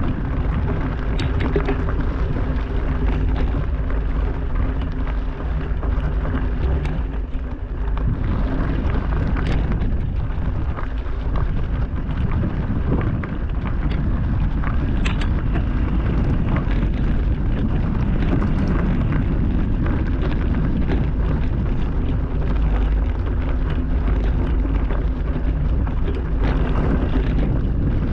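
Wind buffeting the microphone while riding a rough trail, with scattered clicks and knocks from the bike over rocks.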